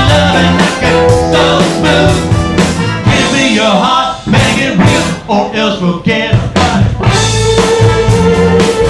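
Live rock band playing: electric guitar and drum kit with steady beats, and singing.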